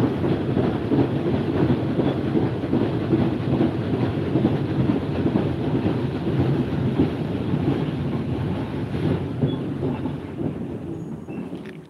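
Passenger train running along the track, heard from an open carriage window: a steady rumble of wheels on rail, which fades out near the end.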